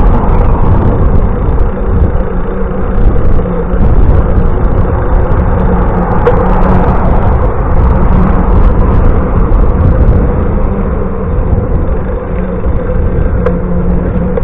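Steady, loud rumble of wind and road noise on a camera carried on a moving bicycle, with a faint steady hum underneath.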